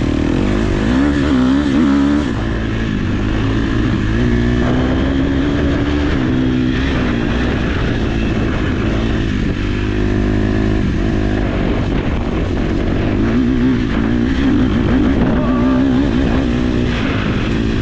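KTM 250 SX-F four-stroke single-cylinder motocross engine being ridden, its revs rising and falling again and again with the throttle.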